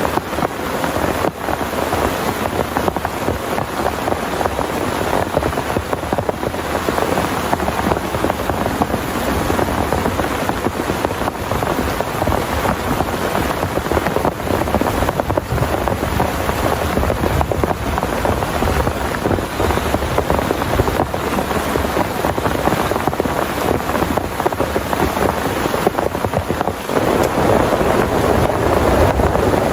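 Heavy rain pouring steadily, a dense, even patter that grows louder and heavier near the end.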